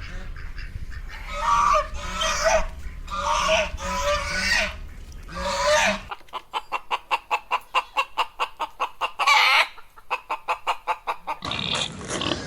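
Chickens calling: a string of loud squawking calls, then a fast run of short clucks with one louder squawk in the middle.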